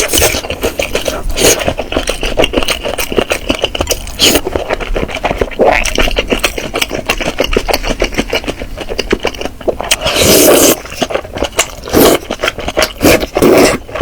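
Close-miked chewing and crunching of food: dense, irregular crackles and smacks, with louder bursts near the end.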